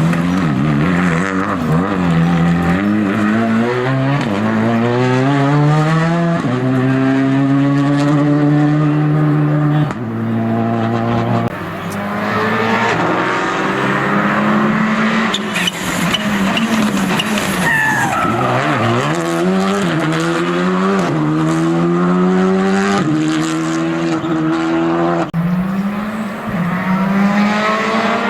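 Rally car engine at full throttle, climbing in pitch up through the gears with a short break at each shift, then dropping as the driver lifts and brakes for a corner about two-thirds of the way through, before accelerating hard up through the gears again.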